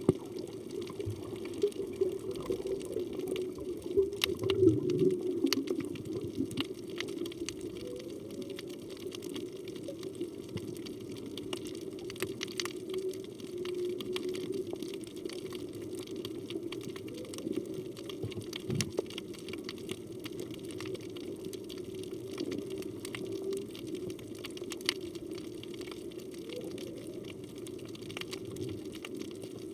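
Underwater sound with scattered clicks and a steady low hum, over which humpback whale song comes through as several low calls that glide in pitch. The loudest, about four seconds in, sweeps upward.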